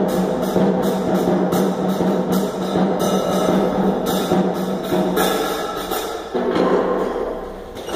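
Drum kit playing a steady rhythm, about three hits a second, over a sustained low tone; the pattern changes about six seconds in.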